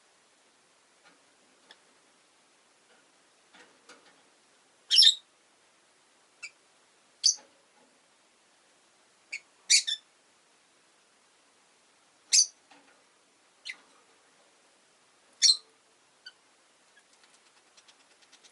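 Rosy-faced lovebirds chirping: single short, sharp, high chirps every second or two, the loudest about five seconds in.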